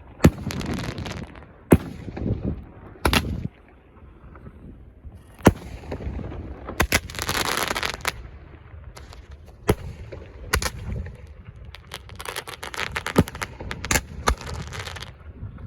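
Fireworks going off: a string of separate sharp bangs a second or two apart. Near the end comes a fast run of crackling pops.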